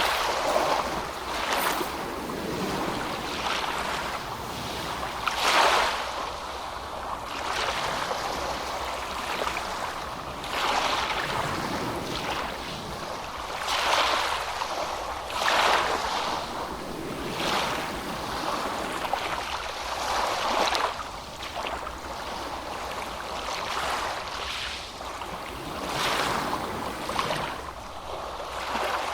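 Ocean waves breaking and washing in, a continuous rush of surf with a fresh wave cresting every two seconds or so.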